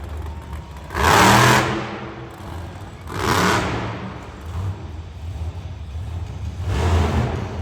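Monster truck engine revving in three short throttle bursts, about a second, three seconds and seven seconds in, with the engine running lower in between.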